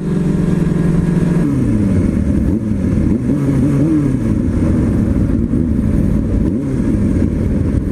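Motorcycle engines running close by: a steady idle, then from about a second and a half in, throttle blips making the engine pitch rise and fall again and again.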